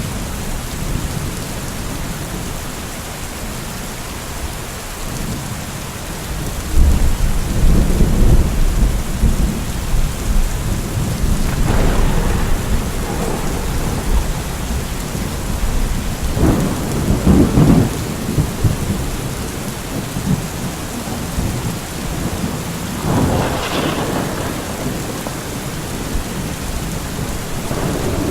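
Steady heavy rain with rolls of thunder. Deep rumbles swell up about six seconds in and again several times, the loudest near the start of the rumbles.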